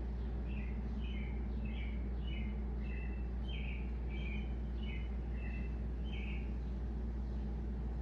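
A songbird singing a quick run of about ten repeated two-part notes, each dropping in pitch, that stops about six and a half seconds in. Underneath is a steady low hum.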